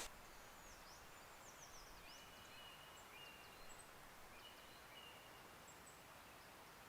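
Faint birdsong: small songbirds giving short high chirps and a few thin whistled notes, over a steady low hiss of quiet ambience.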